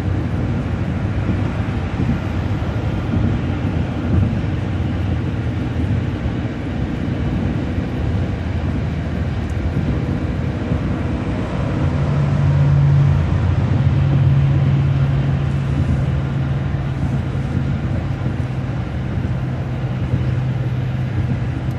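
Bus engine and tyre noise at highway speed, heard from inside the cabin. A steady low drone joins about halfway through and holds.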